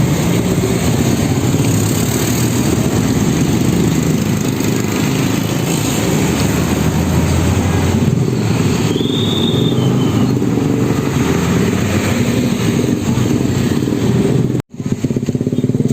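Road traffic with engines running close by, a dense steady rumble of motor vehicles. A short high beep sounds about nine seconds in, and the sound drops out for an instant near the end.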